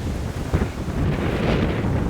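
Blizzard wind gusting across the microphone: an uneven low buffeting rumble with a rush of wind above it, swelling about a second in.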